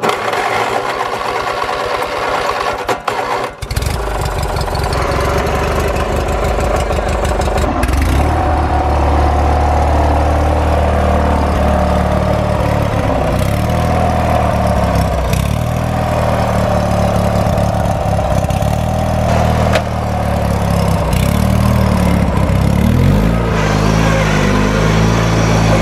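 An engine cranked by its electric starter for about three and a half seconds, then catching and running, its speed rising and falling.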